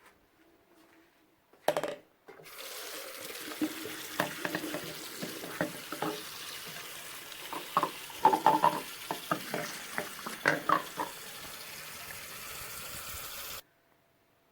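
Water rushing and splashing for about eleven seconds with irregular knocks. It starts just after a single knock and stops abruptly.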